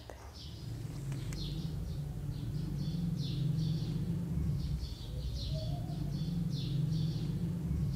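Small birds chirping repeatedly in short quick calls, over a steady low hum.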